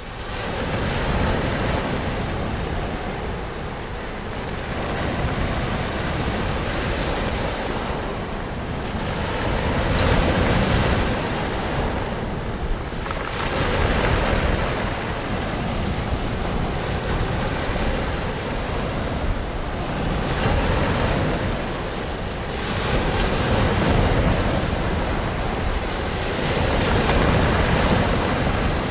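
Ocean surf: waves washing in a continuous roar of noise that swells and eases every few seconds.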